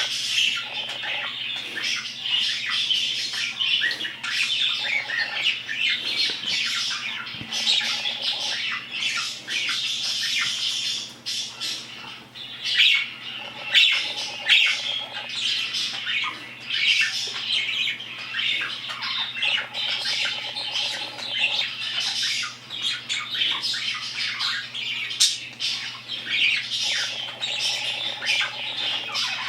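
Birds squawking and chattering continuously, many short calls overlapping, over a steady low hum.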